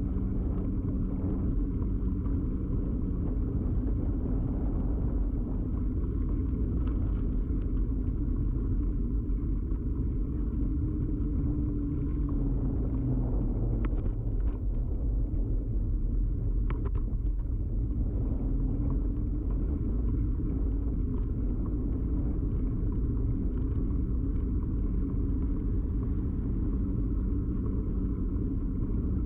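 Steady low rumble of a bicycle in motion, carried straight into a camera fixed to the bike: tyre and frame vibration with a faint hum, and a couple of small clicks in the middle.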